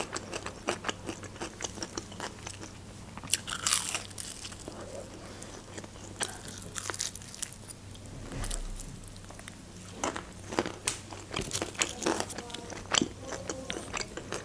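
Close-miked biting and chewing of fried chebureki: crisp pastry crust crunching and crackling with many small mouth clicks, with a few louder crunches along the way.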